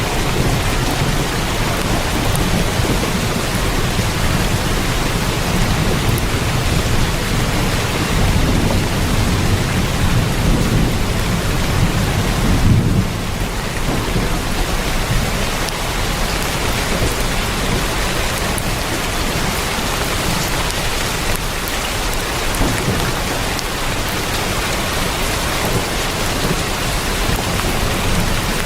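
Heavy rain falling on a tin roof, a steady even hiss, with a low rumble of thunder under it in the first half that drops away suddenly about thirteen seconds in.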